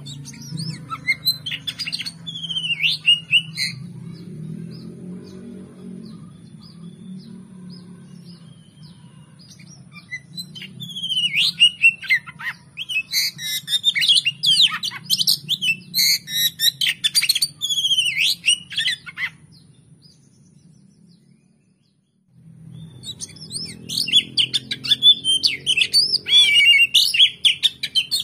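Oriental magpie-robin (kacer) singing in bursts of rapid, varied whistles and chirps. The song breaks off briefly near the middle and starts again.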